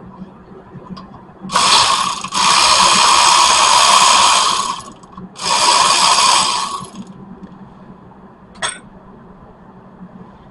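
Power impact wrench running in three bursts, a short one, then a long one of about two and a half seconds, then one of about a second and a half, as used to loosen a car's wheel lug nuts. A single sharp metallic click follows a little later.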